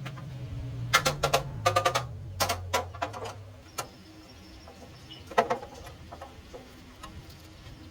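Clusters of sharp clicks and knocks, about a second in, around two and a half seconds, and once more near five and a half seconds. For the first few seconds they sit over a low hum that fades out.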